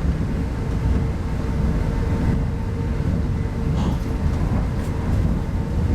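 Steady running rumble inside an RZ25T passenger coach on a moving train, with a faint steady hum over it.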